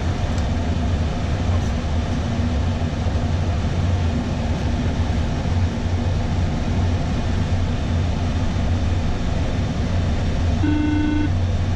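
Steady flight-deck noise of an Airbus A320 in flight: airflow rushing past the cockpit over a low engine hum. Near the end a short electronic beep sounds once, for about half a second.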